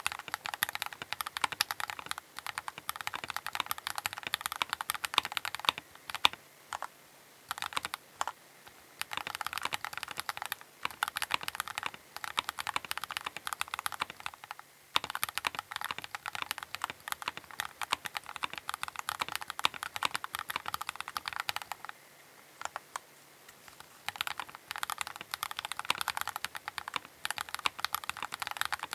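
Typing on a Keychron K8 Pro mechanical keyboard: fast, dense runs of clicky keystrokes broken by a few short pauses.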